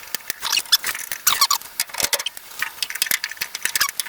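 Hand ratchet clicking in quick, uneven runs while backing out a 1/4-inch rusty ground bolt, with short squeaks from the bolt.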